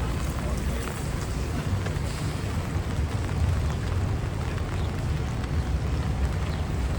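Rainy city street ambience: a steady low rumble of passing traffic under an even hiss of rain, with scattered faint ticks.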